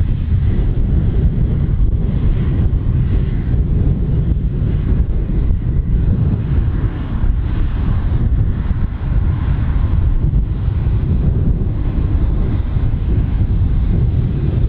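Jet airliner engines running loud and steady, a deep rumble with a rushing hiss above it.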